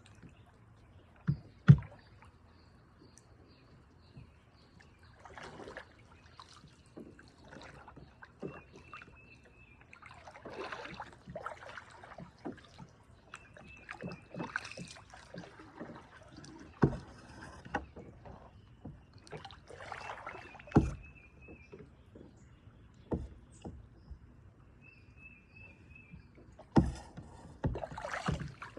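Kayak paddle strokes splashing in the water at an uneven pace, with a few sharp knocks of the paddle against the kayak's hull, the loudest about a second and a half in.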